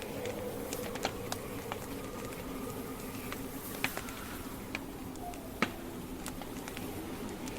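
Wood campfire crackling, with irregular sharp pops of burning logs, two louder ones near the middle, over a steady low hum.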